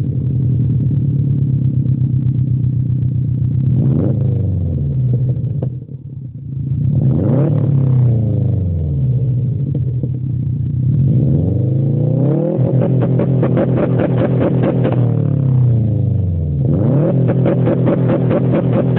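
2015 Subaru WRX STI's 2.5-litre turbocharged flat-four engine idling through a muffler-delete exhaust and being revved in four blips, the third one held longer before falling back to idle.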